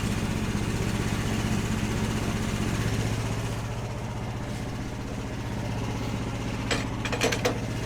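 Engine idling steadily, with a cluster of sharp clanks near the end.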